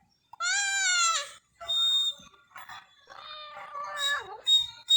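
A cat meowing: one long meow with a slightly falling pitch starting about half a second in, followed by quieter, rougher calls.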